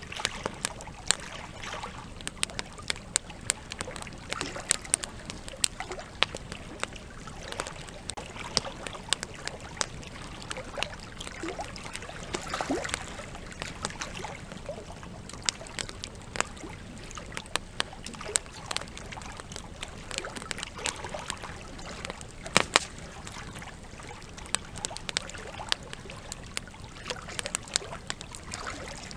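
Wood campfire crackling with frequent sharp pops, over the steady rush of flowing river water. The loudest is a double pop about two-thirds of the way through.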